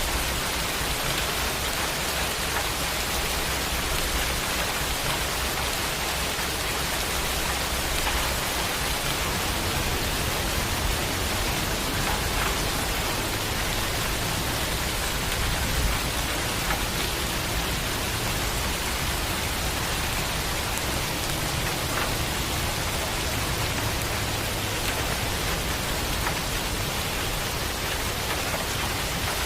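Steady rain falling, a continuous even hiss with scattered sharper drop ticks.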